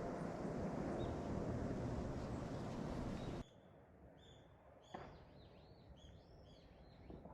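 A steady rushing noise that cuts off suddenly after about three seconds. After it, small birds chirp repeatedly in short rising-and-falling calls, with a sharp click about five seconds in.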